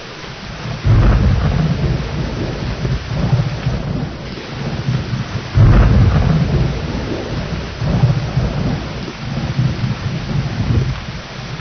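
Thunderstorm: rain falls steadily under rolling thunder. A thunderclap breaks in sharply about a second in and another, the loudest, about halfway through, each rumbling on for several seconds.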